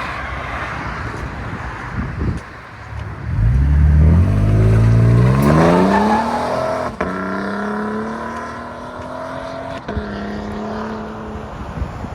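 A 2023 Toyota Tundra's 3.4 L twin-turbo V6, exhausting through a Carven R-Series muffler with the factory rear resonator kept, accelerates hard from about three seconds in. Its exhaust note climbs steadily in pitch, drops at an upshift about seven seconds in, climbs again, and shifts once more near the end.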